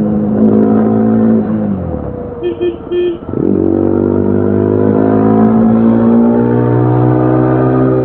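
A 2025 Yezdi Adventure's single-cylinder engine and exhaust running at steady high revs, easing off about two seconds in, then revving up again about three and a half seconds in and climbing slowly. A few short beeps sound as the revs dip.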